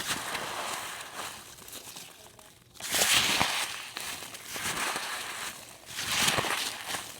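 Packing peanuts crackling and rustling as they are handled and squeezed, in several bouts, the loudest about three seconds in.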